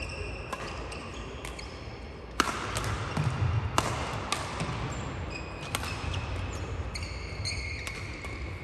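Badminton play: rackets striking the shuttlecock in a string of sharp cracks a second or so apart, with players' shoes squeaking in short high chirps on the court floor.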